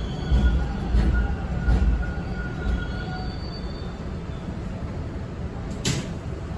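Toronto subway Bombardier T1 car running between stations, heard from inside: a heavy low rumble with continuous rattling and knocking vibrations, and faint thin wheel squeal tones that come and go. A single sharp click sounds about six seconds in.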